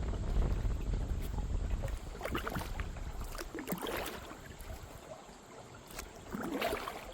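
Kayak paddle strokes, the blades dipping and splashing in the river water three times. Wind buffets the microphone in the first two seconds.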